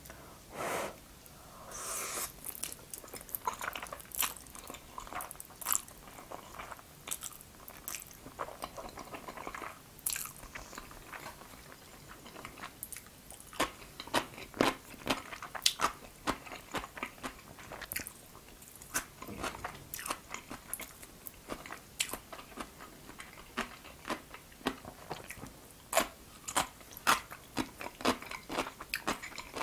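Close-miked eating sounds of jajangmyeon (black bean sauce noodles) being chewed: many sharp wet clicks and smacks of the mouth, coming thicker in the second half.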